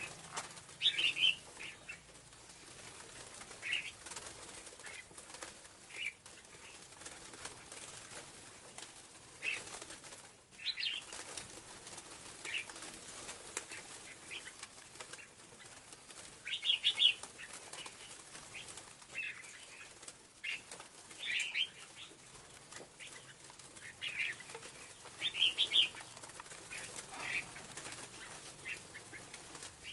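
Scarlet-backed flowerpecker calls used as a lure: short, sharp high chirps at irregular intervals of a second or two, some in quick clusters, over a faint steady hiss.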